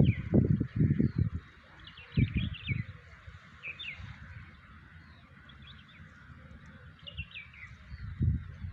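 Small birds chirping in quick clusters of short falling notes, with pauses between the clusters. Low rumbling thuds run under them, loudest in the first second or so and again near the end.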